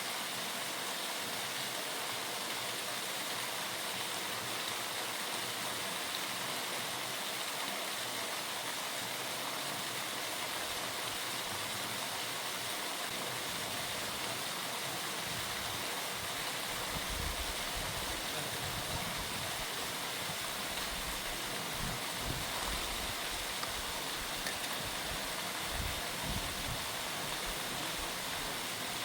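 Waterfall rushing steadily. From about halfway through, irregular low rumbles join it.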